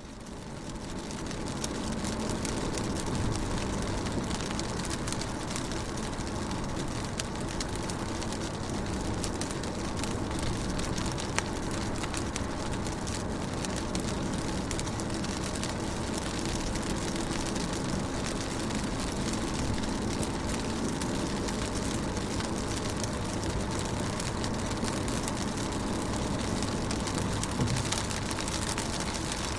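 Rain pattering on a car's window, a steady wash of fine drop ticks over a low steady hum. It fades in during the first second or so.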